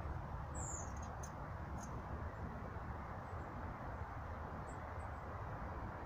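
A few short, thin, very high-pitched calls from a small bird, the clearest a brief falling squeak about half a second in, over a steady low background rumble.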